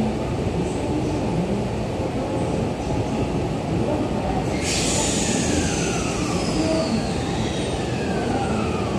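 Electric commuter trains, a JR East E231-800 series and a Tokyo Metro 15000 series, standing at the platform with a steady low running noise. About halfway through a sudden hiss of air starts, and high whining tones fall slowly in pitch over the following seconds.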